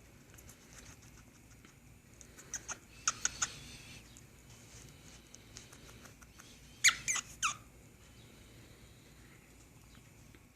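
Cockatiel making a few short, high squeaky chirps in two brief clusters, about three seconds in and, louder, about seven seconds in.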